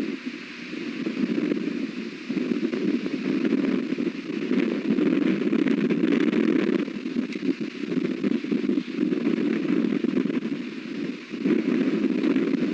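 Strong wind buffeting the nest camera's microphone, a rushing noise that swells and eases in gusts.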